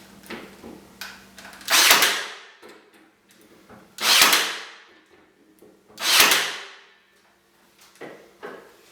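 A nail gun fires three nails into pallet-wood boards, about two seconds apart. Each shot is a sharp crack trailing off in a short hiss, with a few light knocks of wood being handled between them.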